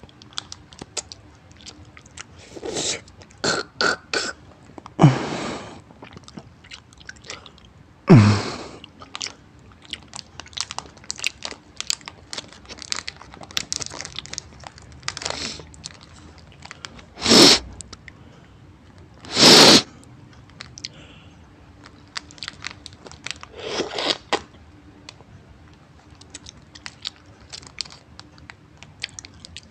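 Close-up eating sounds: biting and chewing, with a foil candy wrapper crinkling and rustling in the hands. Many small clicks run throughout, with a handful of louder, sharp crackles.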